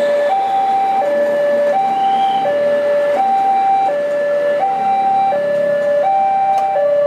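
Railway level-crossing warning alarm sounding its two-tone signal, the pitch swapping up and down about every 0.7 seconds, warning that a train is approaching; it stops at the very end.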